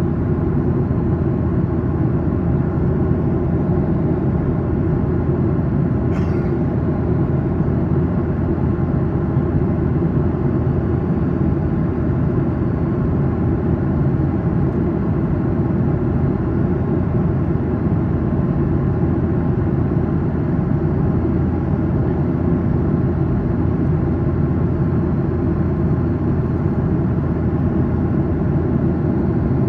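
Steady cabin drone of a Boeing 737-800 in flight, engine and airflow noise heard from inside the passenger cabin, with a faint tick about six seconds in.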